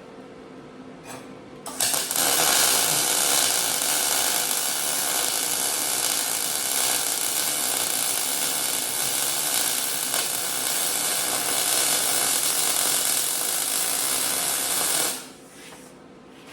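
Electric welder running one continuous bead on sheet-metal muffler parts: a steady crackling sizzle that starts about two seconds in and cuts off about two seconds before the end.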